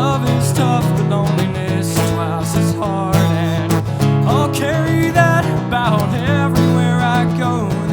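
Acoustic guitar strummed in steady chords, with a higher, wavering melody line over the strumming.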